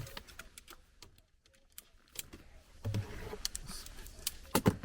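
Light clicks and rattles of camping tent poles being handled and fitted together during assembly, quieting for a moment about a second in, with a sharper knock near the end.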